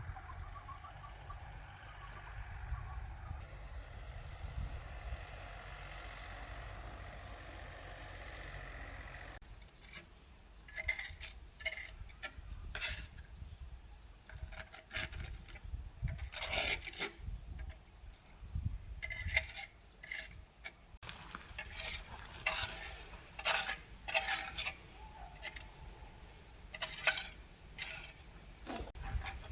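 A steady hum for about the first nine seconds, then irregular clinks and knocks of small hard objects being handled.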